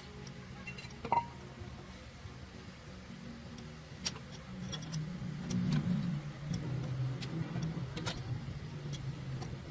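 A steady low engine-like drone that swells for a couple of seconds midway, with scattered sharp metallic clicks and taps of tools at work.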